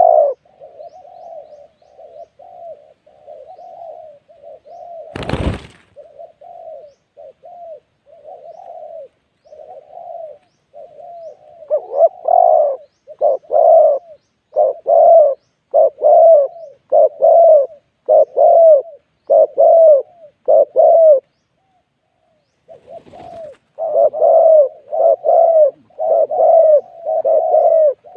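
Spotted dove cooing in a long run of short repeated coos, faint at first and much louder from about twelve seconds in, with a brief pause near the end. A single sharp knock sounds about five seconds in.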